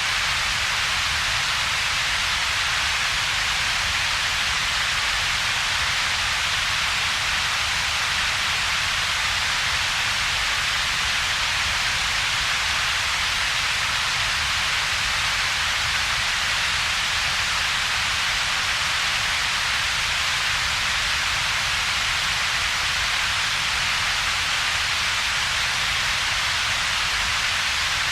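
Steady synthetic double-peaked noise: an even hiss strongest around the upper-middle range, with a second, weaker band of low rumble beneath and a gap between them. It does not change.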